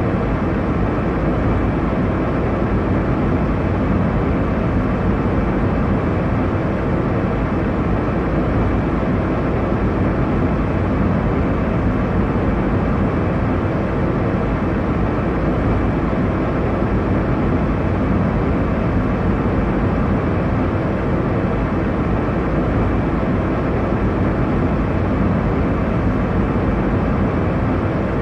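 Airliner cabin noise in flight: a steady, deep rush of engine and airflow noise that does not change.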